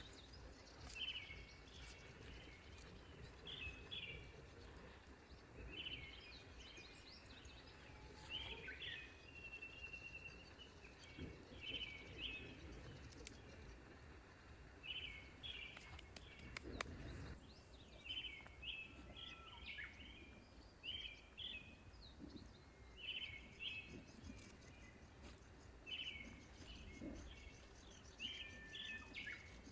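Birds chirping in short bursts of a few quick notes every couple of seconds, with a faint low rumble underneath.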